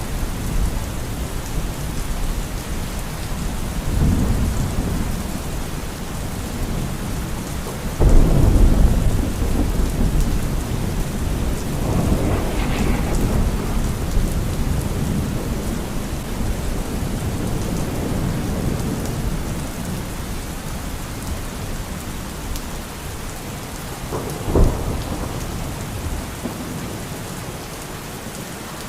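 Steady heavy rain with rolling thunder: a loud clap of thunder about eight seconds in, further rumbles, and a sharp crack of thunder near the end.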